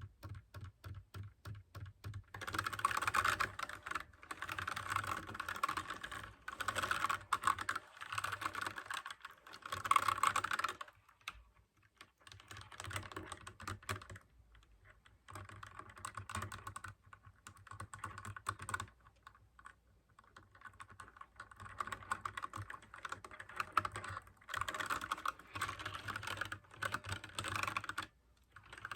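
Mechanical keyboard with clicky blue switches being typed on. A few separate keystrokes at first, then bursts of rapid typing broken by short pauses, with a second long run of fast typing near the end.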